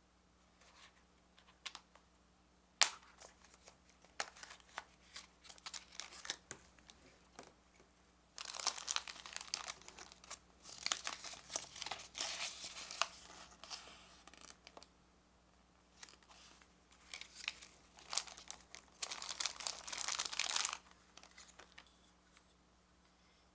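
Plastic packaging crinkling and tearing as a capsule toy is unwrapped by hand, in two long spells, after a sharp click and scattered small taps.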